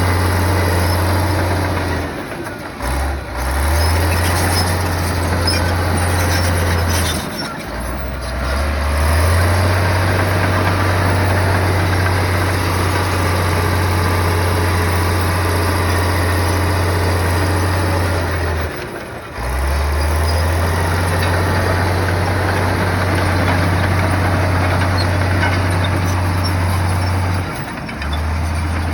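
Heavy bulldozer's diesel engine running at working revs, a loud, steady low drone with clattering machine noise over it, dipping briefly about four times.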